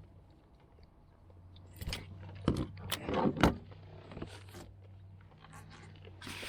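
Handling noises: a run of knocks, clatters and scrapes, loudest about three and a half seconds in, with another near the end, over a steady low hum.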